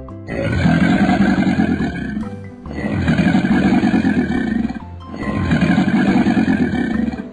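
Crocodile growl sound effect: three long growls of about two seconds each with short gaps between them, over background music.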